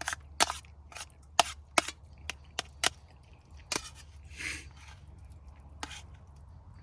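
A series of sharp chopping knocks, about ten at irregular spacing, with a brief scraping rustle about four and a half seconds in.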